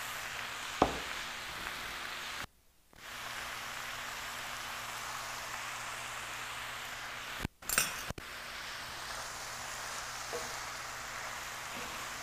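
Hakka stir-fry of pork belly, tofu and vegetable strips sizzling steadily in a hot frying pan as it is tossed with a wooden spatula. There is a sharp clink about a second in, and the sizzle cuts out briefly twice.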